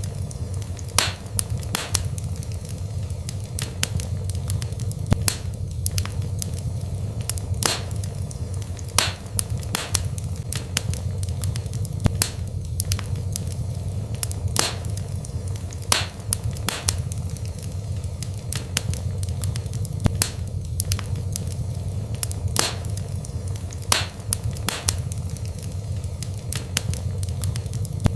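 Wood fire burning in a fireplace: sharp crackles and pops come every second or two, irregularly, over a steady low rumble.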